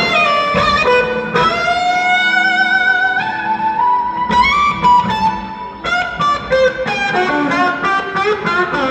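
Electric guitar played live, long held notes that slide up and down in pitch, giving way about two-thirds of the way through to a quicker run of short notes.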